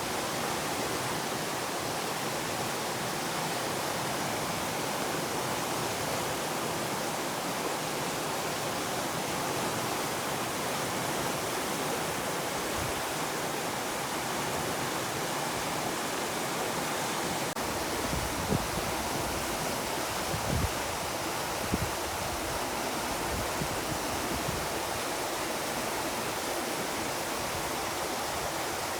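Steady rushing of a fast river running high and swollen in flood after a typhoon. A few low bumps come about two-thirds of the way through.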